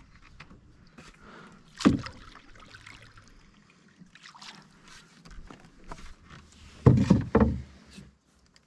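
Canoe being paddled into position, with faint water sounds. There is one knock about two seconds in and two louder knocks close together near the end.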